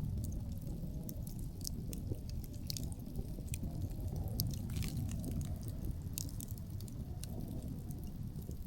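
Wood campfire crackling, with frequent sharp pops and snaps scattered irregularly over a steady low rumble of wind.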